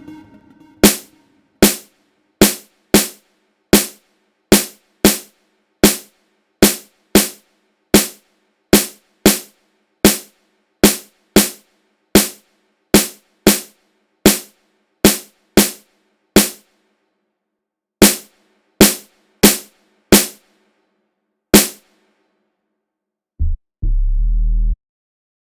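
Electronic beat made with a drum machine: a run of sharp, quickly fading percussion hits in a syncopated pattern. After a short gap, deep bass notes come in near the end.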